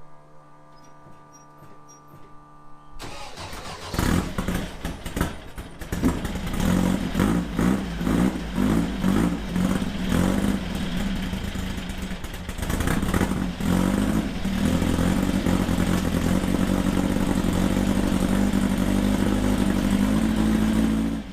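An engine starting up about three seconds in, revved in a run of quick blips, then running steadily at a raised idle until it cuts off abruptly.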